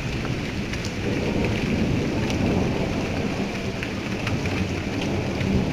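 Steady rain falling during a thunderstorm, with a low continuous rumble underneath and scattered sharp drop ticks.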